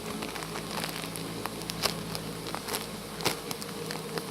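Scattered clicks and crackles from a squishy toy being handled in its plastic bag, over a steady buzzing hum; one louder click a little past three seconds in.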